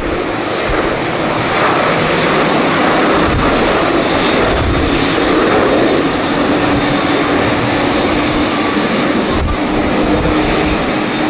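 Jet airliner engines at an airport, a loud, steady noise of a plane taking off or landing, with a steady low hum joining about six seconds in. Gusty wind rumbles on the microphone.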